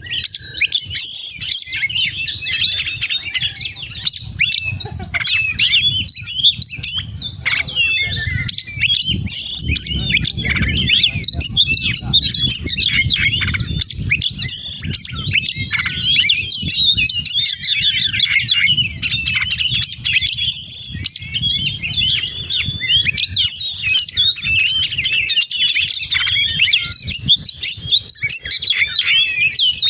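Oriental magpie-robin (kacer) singing non-stop: a fast, varied stream of whistles and chirps packed with mimicked calls of other birds.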